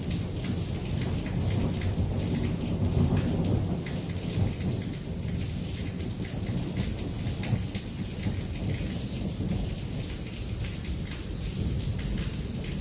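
Heavy rain pouring and pattering, with a low rumble of thunder that swells about two seconds in and eases off after about four seconds.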